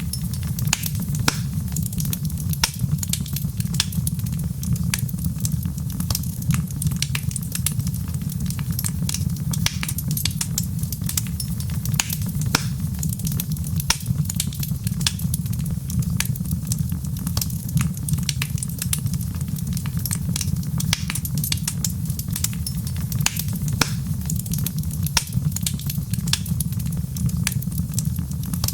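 Wood fire crackling steadily, with frequent irregular snaps and pops over a continuous low rumble.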